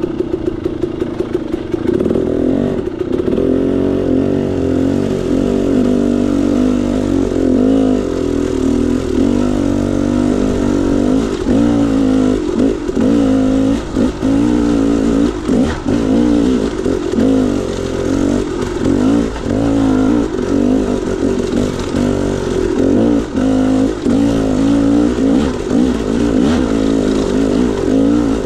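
KTM 300 XC-W single-cylinder two-stroke dirt bike engine being ridden, held fairly steady for the first couple of seconds and then revving up and down again and again as the throttle is opened and closed.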